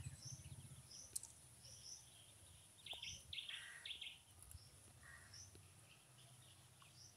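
Faint background birds chirping: short high calls every second or so, with a quick run of notes about three seconds in.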